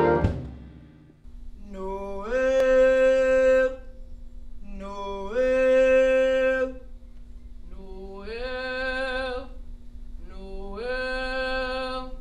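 A brass ensemble's final chord dies away, then unaccompanied voices begin a song: a low note held steadily underneath while four rising sung phrases of about two seconds each come in over it.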